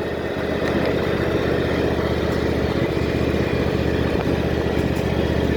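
Small motor vehicle's engine running steadily at low speed, with a rapid even pulse throughout.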